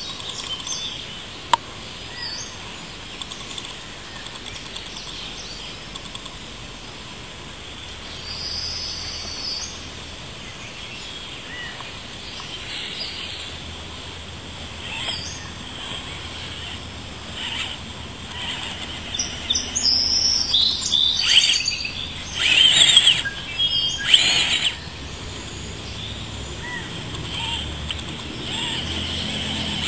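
Birds chirping and calling at intervals over a steady outdoor hiss, with a louder, busier run of sounds about two-thirds of the way through.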